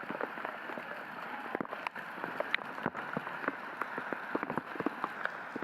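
Steady rain falling, with many drops pattering on nearby surfaces.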